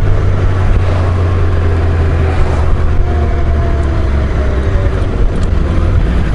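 Honda GL1500 Gold Wing's flat-six engine running steadily on the move, a strong low drone under a constant rush of wind and road noise.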